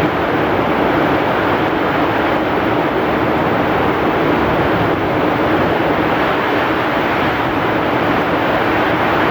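Heavy rain falling with strong wind, a steady, dense roar with no breaks.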